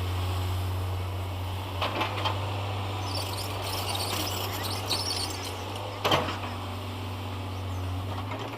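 Heavy machine's diesel engine running steadily at low speed, with a few short knocks. Birds chirp from about three to six seconds in.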